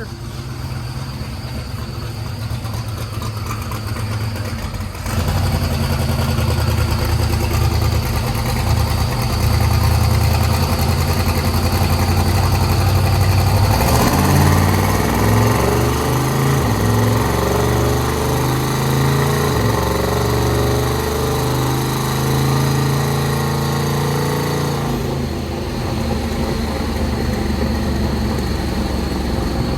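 Twin-turbo Corvette Z06 V8 running on a chassis dyno: it runs steadily, builds load about five seconds in, then makes a loud full-throttle pull with turbo rush from about 14 s until it backs off around 25 s. The tuner takes the run for one that hit boost cut.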